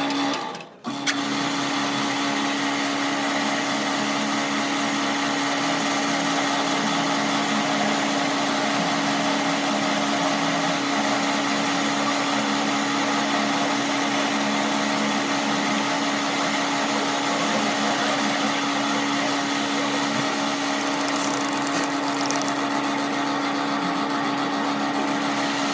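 Electric motor of a workshop power tool or machine running steadily at constant speed, with an even, unchanging tone over a broad noise. It cuts out briefly about a second in.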